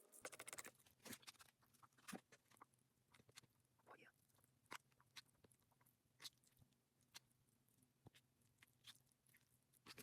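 Faint, scattered small clicks and crackles of takeout food being handled with utensils and plastic containers.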